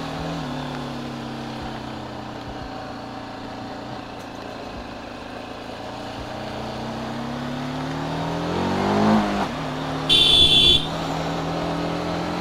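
TVS Apache RTR 310's single-cylinder engine: its note falls as the bike slows, then climbs steadily as it accelerates, dropping sharply about nine seconds in. Just after, a horn sounds once for under a second.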